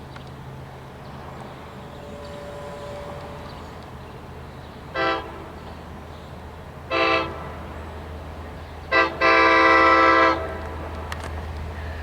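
Long Island Rail Road train horn sounding the grade-crossing signal: two blasts about two seconds apart, then a brief one and a long final blast of over a second, the last the loudest. A low rumble of the approaching train grows under it.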